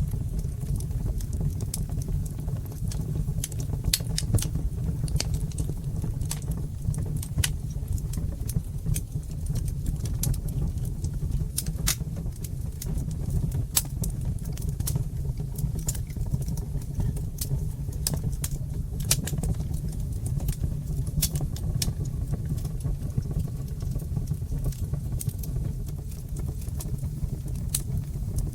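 Fire crackling in a brick fireplace: a steady low rumble from the flames with frequent sharp pops and snaps at irregular intervals.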